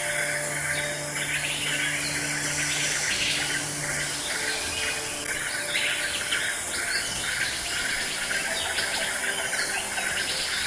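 Many birds chirping and calling at once in a dense, continuous chatter, over a steady high insect-like hiss.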